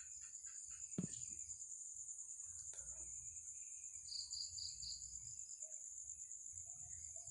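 Night insects such as crickets trilling steadily at a high pitch. About four seconds in there is a short run of repeated chirps, and about a second in a single knock.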